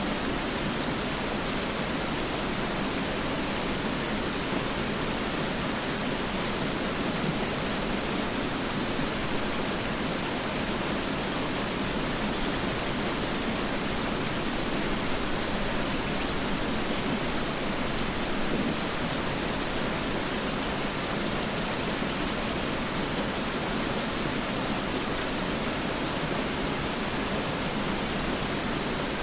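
Mountain river flowing: a steady, even rush of water with no change over the whole stretch.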